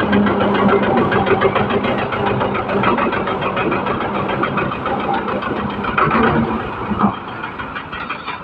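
An engine running steadily at idle, with a fast, even knocking beat.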